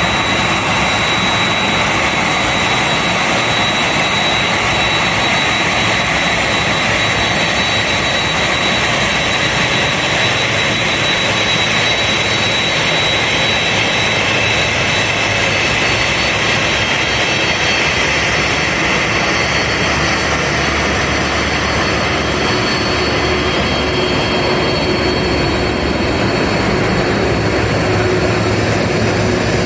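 Boeing 787-8's Rolls-Royce Trent 1000 turbofan engines running steadily, a dense jet rush with a high whine on top. A lower steady hum joins about two-thirds of the way through.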